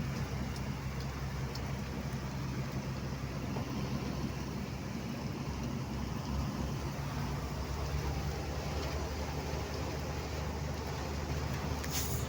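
Vehicle engine running at a steady speed with a low hum, over the even hiss of tyres on a wet road and rain.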